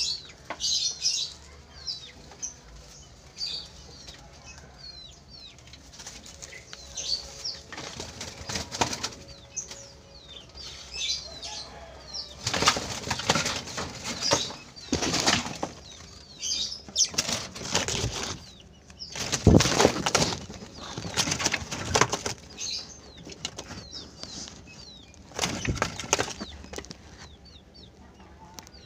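A trapped white-breasted waterhen flapping its wings hard in repeated bouts, each lasting one to three seconds, as it struggles against the trap. Faint high chirps run between the bouts.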